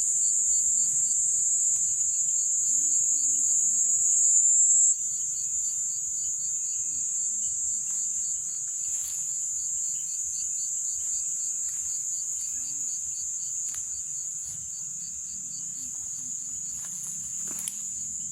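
Night chorus of rainforest insects: a loud, steady, high-pitched trill with a fainter, rapidly pulsing call beneath it. The loudest trill cuts off about five seconds in, leaving the chorus a little quieter.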